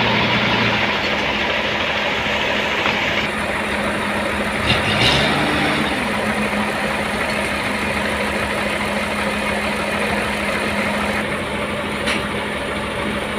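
Sawmill machinery running with a steady, loud drone and a constant hum, with a short knock about five seconds in and another near the end.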